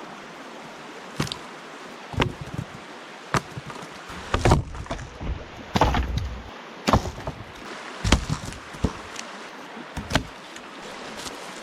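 A string of irregular knocks and clatters, about nine in all, the loudest a few seconds in, over the steady rush of a nearby stream.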